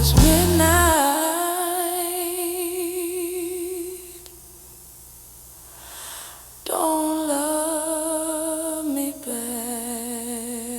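Unaccompanied voice humming long held notes with a slow vibrato, a wordless interlude in a blues song. There are three sustained notes, with a quiet gap between the first and second.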